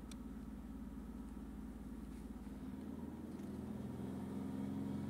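Acura Legend V6 engine running above idle with the accelerator held, the car stationary. About three and a half seconds in its pitch and level rise a little as it climbs from about 2,100 to about 2,700 rpm.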